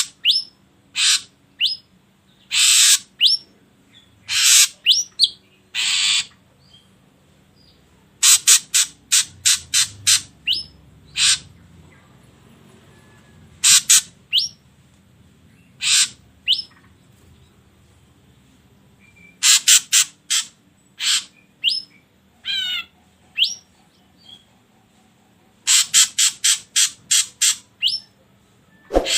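Ashy drongo calling: sharp, high notes, some single and some in quick runs of five or six, separated by pauses of a second or two, with one wavering, trilled note about three quarters of the way through.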